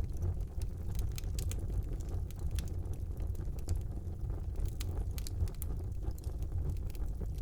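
Wood fire burning in a brick fireplace: a steady low rumble of the flames with frequent small, irregular crackles and pops from the burning logs.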